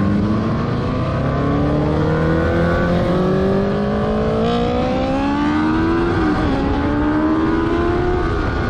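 Motorcycle engine accelerating steadily, its pitch rising slowly, with a brief drop about six seconds in like a gear change before it climbs again.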